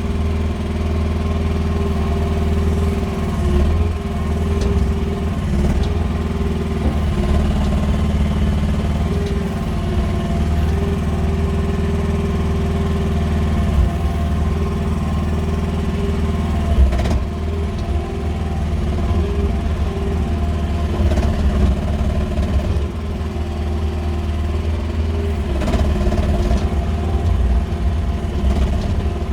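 Engine of a QH13R mini excavator running steadily while it works, its note shifting slightly with hydraulic load, with a couple of brief clunks about halfway through.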